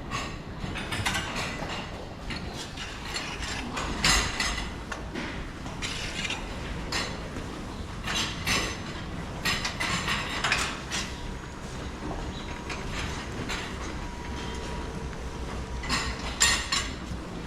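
Cattle feeding at a barn feed fence: irregular rustling and metallic rattling over a steady low hum.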